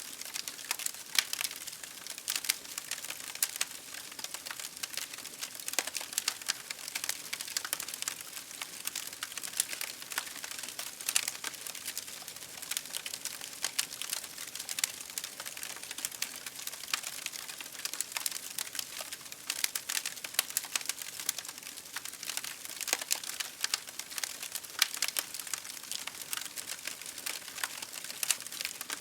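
Wood fire crackling and popping steadily: a continuous hiss with many sharp, irregular snaps.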